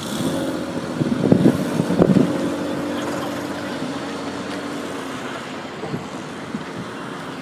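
A motor vehicle's engine running and fading away over a few seconds, with a few loud knocks in the first couple of seconds.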